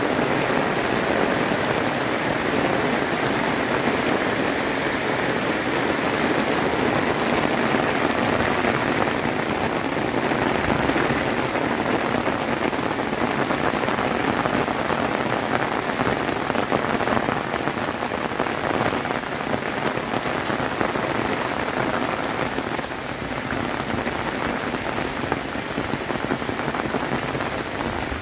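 Heavy rain falling steadily, a dense even hiss of drops striking surfaces, slightly softer near the end.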